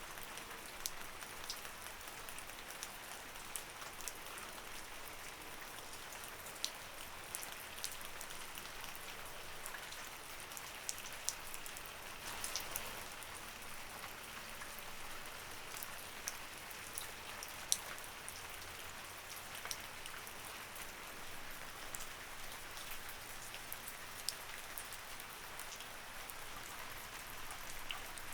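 Light rain falling steadily, a soft hiss with many distinct drops ticking on a surface.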